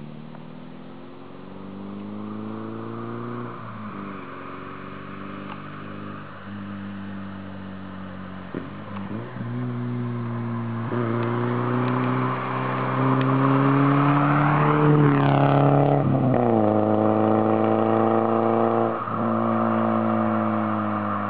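Škoda Felicia 1.6 four-cylinder petrol engine and exhaust, pulling under load. The note climbs steadily and drops back several times, as if through gear changes, and gets louder from about halfway through.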